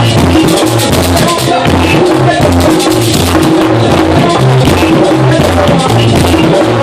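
Dominican merengue típico band playing at full tilt: a pulsing electric bass line under the steady scrape of a güira and the beat of a tambora, with accordion.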